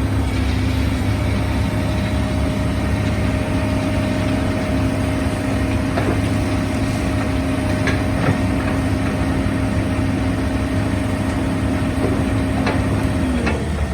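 Diesel engine of heavy construction machinery running steadily, with a constant low drone and a steady whine that dips in pitch near the end.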